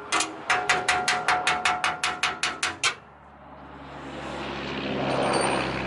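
A quick run of metallic clicks, about five a second, with a ringing tone under them, stopping abruptly about three seconds in. A low engine drone then swells up and holds.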